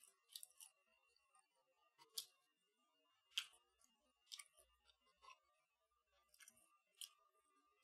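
Close-up chewing of crispy breaded mini chicken kievs: sparse, sharp crunches and mouth clicks about once a second over near silence.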